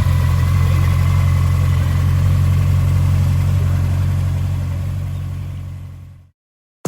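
Honda CB1100RS air-cooled inline-four engine idling steadily. The sound fades away over the last couple of seconds to silence.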